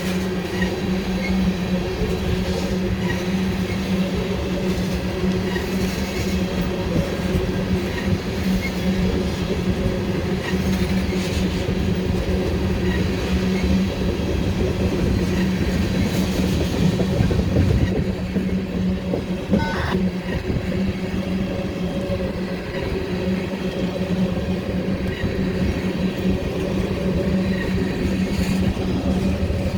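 Norfolk Southern freight train rolling past, its cars' wheels running on the rail under a steady hum.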